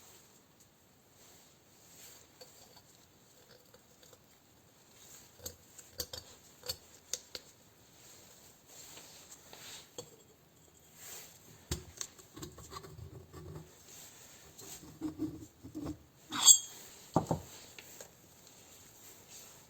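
Metal engine parts and hand tools being handled: scattered light clicks and clinks, a sharp clink near the end and a duller knock just after.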